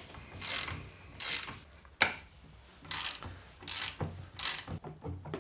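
Ratchet wrench clicking in a series of short strokes, tightening the end-plate bolts on a Land Rover steering box, with a single sharp metallic knock about two seconds in.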